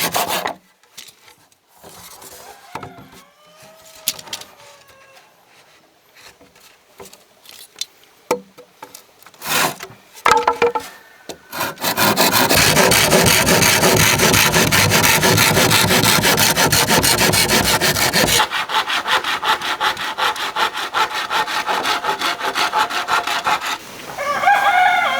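A saw cutting bamboo with rapid, even strokes. It starts, pauses for some quieter knocks, then runs loudly and continuously from about halfway, softer in the last few seconds. A short animal call sounds near the end.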